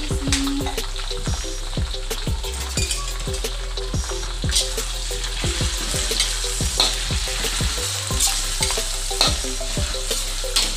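Shrimp, pork, garlic and onion sizzling in a hot stainless-steel wok, with a metal spatula repeatedly scraping and clinking against the pan as they are stir-fried. The clinks come more often from about halfway through.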